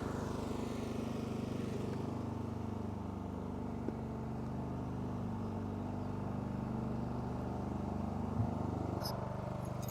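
Riding lawn mower engine running steadily at low speed, its pitch shifting slightly now and then.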